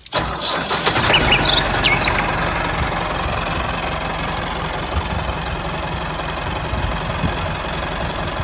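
Tractor engine running steadily with a knocking beat, with a few bird chirps in the first two seconds.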